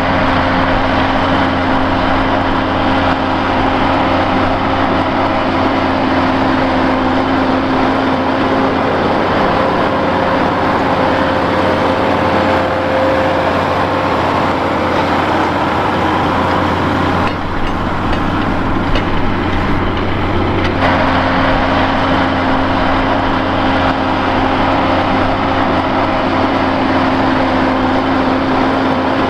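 Fiat 160-90 Turbo tractor's turbocharged diesel engine running steadily, with a steady tone over the engine noise that drops out for a few seconds past the middle, then returns.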